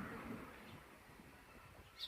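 Near silence: faint background noise with no distinct sound.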